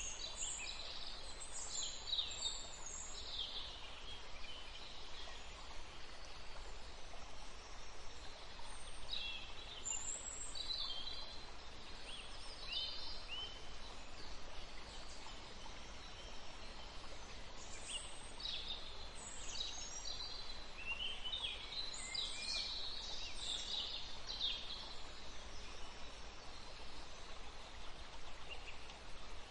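Small birds chirping in scattered bursts of short, high calls over a steady background hiss.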